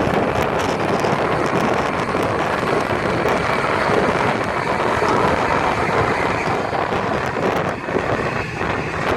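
Steady noise of a departing jet airliner's engines, mixed with wind buffeting the microphone.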